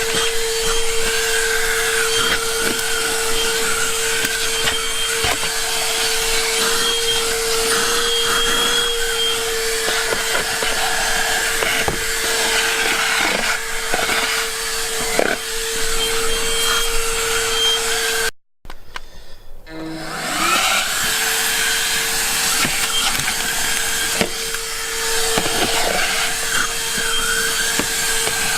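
AUDEW cordless handheld vacuum running with a steady whine over its suction hiss, with occasional clicks and knocks as it is worked over a truck's floor. About two-thirds through it cuts out abruptly, then spins back up to speed.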